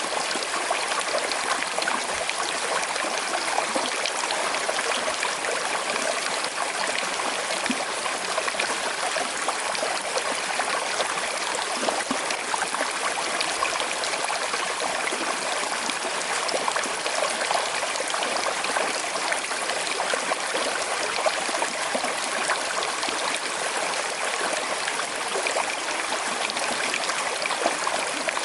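Small river flowing over stones with a slight current, a steady babbling and trickling rush of water.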